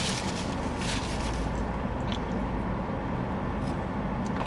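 Steady low rumble of a car cabin, with paper rustling and crinkling in the first second or so.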